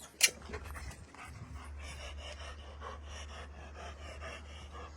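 A dog panting quickly and evenly, about four breaths a second, after a single sharp click just after the start.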